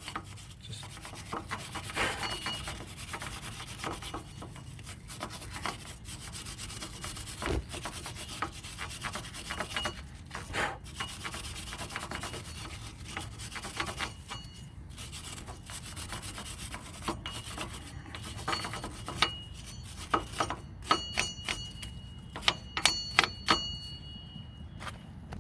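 Hand-scrubbing a rear brake mounting surface clean, a continuous scratchy rubbing. Near the end come several sharp metallic clinks that ring briefly.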